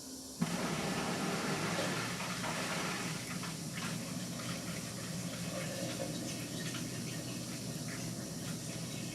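Indesit MTWC71252WUK washing machine starting to take in water: a sudden start just under half a second in, then steady rushing water over a low hum as the drum fills.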